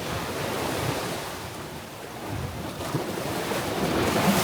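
Sea surf washing onto a sandy beach, with wind on the microphone. The wash eases about two seconds in and swells again near the end.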